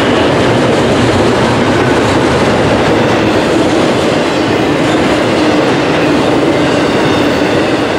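Double-stack intermodal well cars rolling past close at speed: a loud, steady rumble of steel wheels on the rails.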